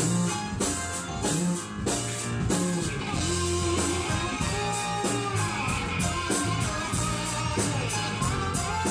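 Live rock band playing an instrumental passage: guitar to the fore over a steady beat from the drums.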